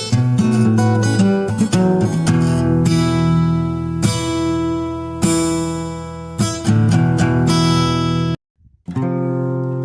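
Background acoustic guitar music, strummed and plucked, that cuts out for about half a second near the end before carrying on.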